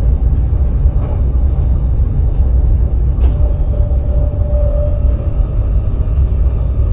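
Electric sprinter train running along the track, heard from inside the driver's cab: a steady low rumble with two sharp clicks a few seconds apart and a faint hum in the middle.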